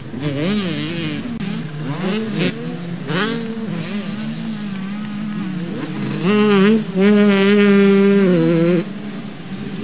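Motocross motorcycle engines revving up and down as bikes race round the track. One bike is much louder, holding a steady high note from about six to nine seconds in before it drops away.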